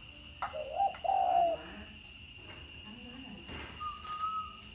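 Spotted dove cooing once about half a second in: two short notes, then a longer held note that falls slightly at its end.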